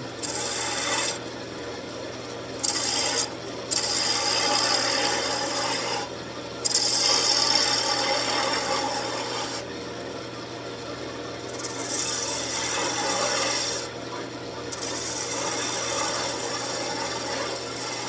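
Wood lathe running while a gouge cuts the spinning wood in a series of scraping passes, each lasting a second or a few seconds, with short pauses between them. The longest and loudest cut comes about seven to nine seconds in, over a steady low motor hum.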